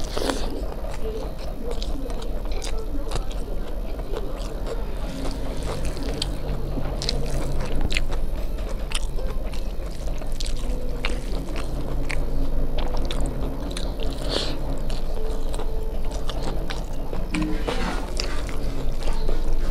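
Close-up eating sounds: wet chewing and mouth smacks of rice, dal and fried bamboo shoots, with fingers squishing and mixing the rice and dal on a steel plate, heard as many short sharp clicks.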